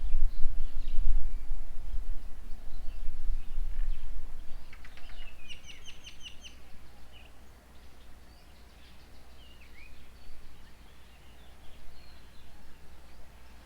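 Outdoor birds calling and chirping at a bird table: scattered short calls, a quick run of about eight chirps about five seconds in, and a falling call around ten seconds in. A low rumble is loudest over the first four seconds, then dies away.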